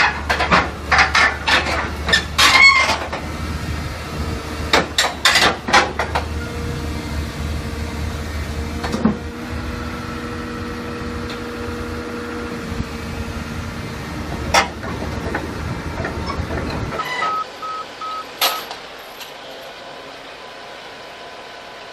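Heavy machinery running with a steady low drone, with a quick series of sharp clanks and knocks in the first few seconds. About seventeen seconds in the drone cuts off, giving way to a quieter background with a few short beeps.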